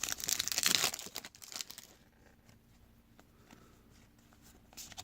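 Trading card pack wrapper being torn open and crinkled for about two seconds, then a few faint clicks of cards being handled.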